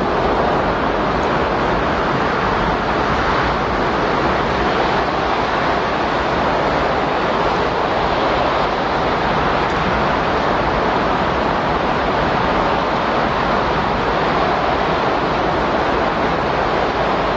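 Windstorm sound: a steady, unbroken rush of wind noise at an even level, with no gusts or breaks.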